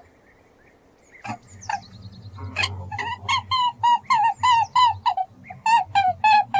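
A bird calling over and over in a fast run of short, arched calls, about four a second, that gets going a couple of seconds in after a few scattered calls.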